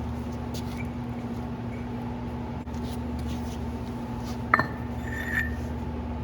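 A sharp metallic click about four and a half seconds in, then a short ringing clink, as metal plow parts are handled over a steady low hum.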